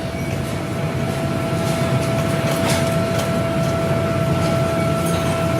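Factory machinery running: a steady low rumble with a constant whine held on one pitch throughout, and a few faint metallic clinks.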